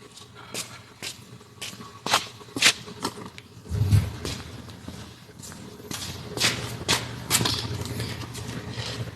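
Scattered clicks, knocks and rattles of hand work on a car interior, with a heavier low thump about four seconds in.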